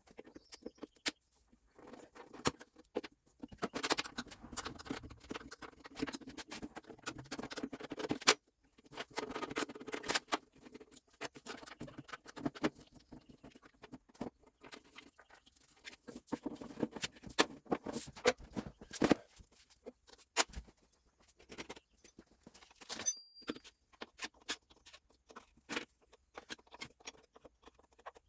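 Hand-tool work on a tractor's rear axle: scattered clicks, taps and scraping of tools against metal parts, busier at times, with a few sharper knocks.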